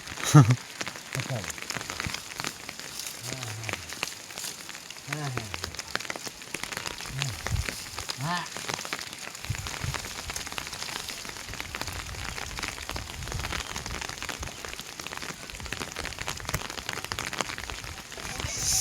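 Heavy rain falling, a dense steady patter of drops.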